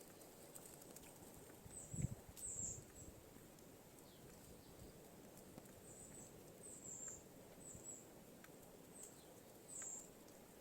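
Near silence with faint, short high chirps of small birds, repeated several times, and a dull low thump about two seconds in.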